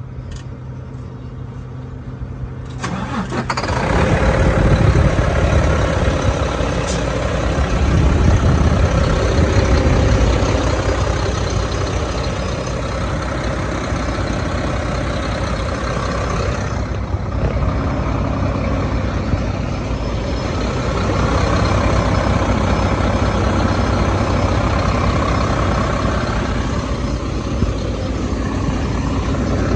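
The diesel engine of a Mack CXU Pinnacle semi truck starts about three seconds in and then keeps running loudly, its level swelling and easing a little.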